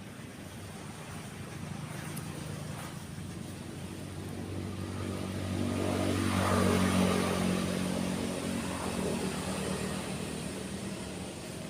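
A motor vehicle driving past, its engine growing louder to a peak around the middle and then fading away, over the steady wash of waves.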